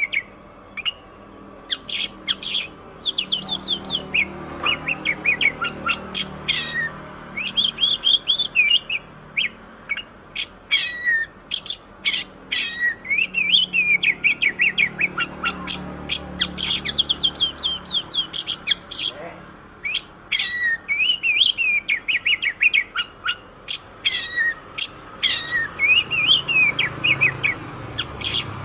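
Oriental magpie-robin (kacer) singing a fast, varied song: quick runs of short, high whistled and chattering notes with brief pauses between phrases.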